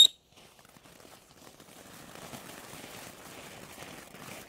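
Firework whistle fountain's falling whistle cutting off abruptly right at the start, followed by a faint, uneven hiss. The whistle stops short because the fountain's second whistle chamber is missing.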